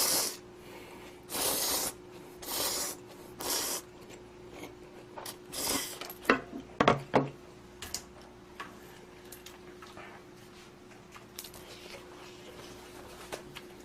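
A person eating instant budae-jjigae ramen with short, hissy slurps of noodles, four or five times in the first half. After that come a cluster of sharp utensil clicks and chewing, then a few quieter clicks.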